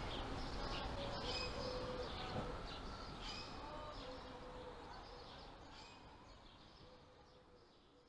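Birds chirping and twittering over a steady background hiss, fading out gradually over the second half.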